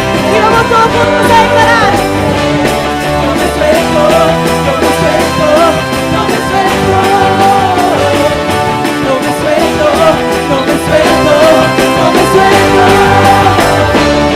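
Live worship band playing a praise song at full level, with a wavering lead melody over sustained chords, bass and drums.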